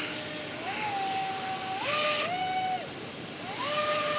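RC jetboat's brushless electric motor whining. Its pitch steps up and down with the throttle in short runs, with a higher and a lower whine at times heard together.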